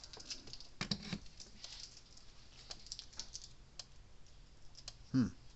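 Scattered light clicks and taps, irregular, with a stronger knock about a second in, from handling a Zareba 50 Mile electric fence charger as it is plugged in and powered up.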